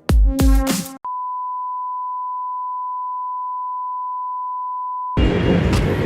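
Electronic music with a heavy beat cuts off about a second in. A single steady, pure beep at one pitch, like a test tone, follows and holds for about four seconds. A dense, loud rumbling sound starts abruptly near the end.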